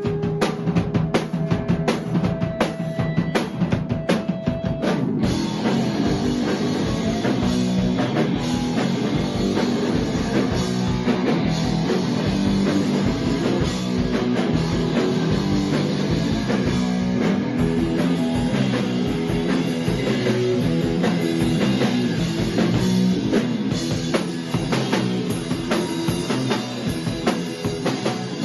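Rock music: a drum kit plays the opening hits with little else for about five seconds, then the full band comes in with a steady driving beat.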